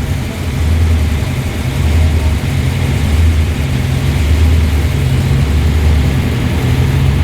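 Muscle car engine idling and rolling slowly at low revs, a heavy, uneven low rumble that swells and dips about once or twice a second.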